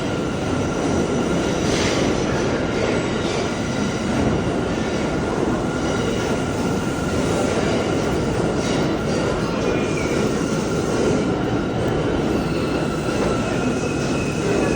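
Subway train running at steady speed: a loud continuous rumble with a thin, steady high tone above it.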